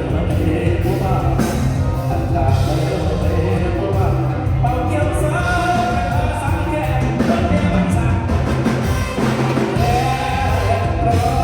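Mor lam band music played loud over a concert sound system, with a heavy pulsing bass beat and a melody line that bends in pitch, joined by singing.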